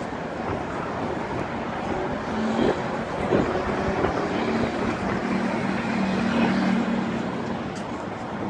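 Steady outdoor traffic and harbour noise. From about two seconds in to about seven seconds in, a low tone changes pitch in steps over it.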